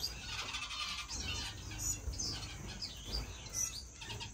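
Many caged finches chirping and twittering together, a steady mix of short high calls and quick trills.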